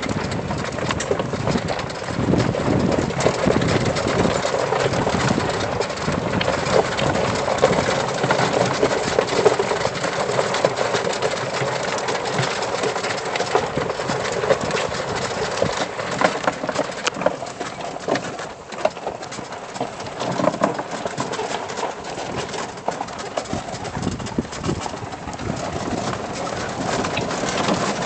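Battery-powered trail vehicle rolling over a rough dirt trail: a steady rumble and crackle of tyres on the ground, with many small knocks and rattles.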